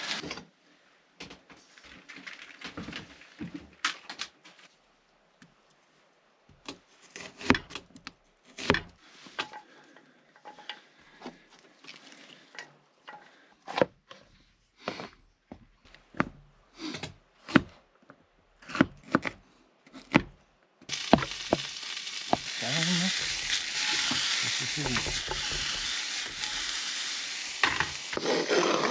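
Knife knocking irregularly on a cutting board as tomato and pepper are cut. About two-thirds of the way through, a steady sizzle starts as food hits a hot frying pan.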